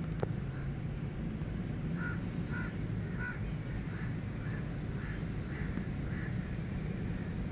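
A bird calling: a run of about nine short calls, roughly two a second, starting about two seconds in and stopping about six seconds in, over a steady low background noise.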